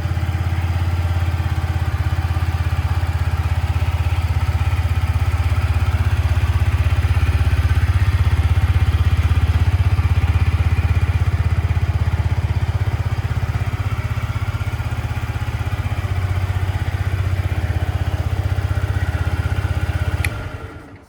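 Yamaha YZF-R125's 125 cc single-cylinder four-stroke engine idling steadily, very quiet. Near the end there is a click and the engine cuts off.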